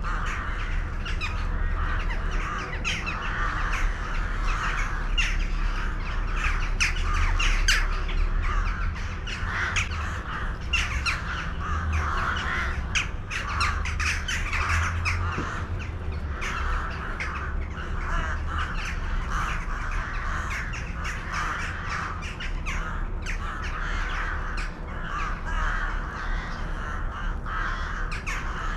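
A flock of birds calling all together without a break, short, harsh calls overlapping densely, over a steady low rumble.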